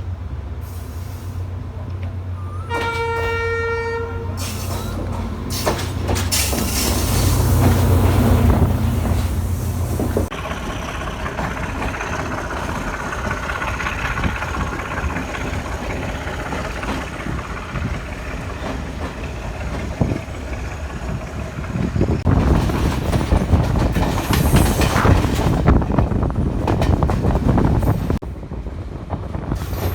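A train on a Sri Lankan line sounds its horn once, for about a second and a half, over a deep engine rumble. After an abrupt change about ten seconds in, the steady running noise of a moving train follows, its wheels clattering over the rails, and it grows louder in the last several seconds.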